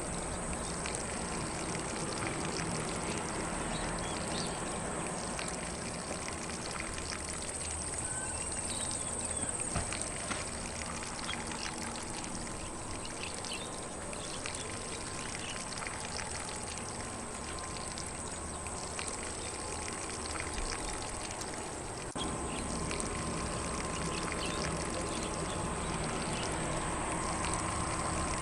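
Lawn sprinkler spraying water across grass in a steady, even hiss, with faint bird chirps in the background. The spray gets slightly louder about three-quarters of the way through.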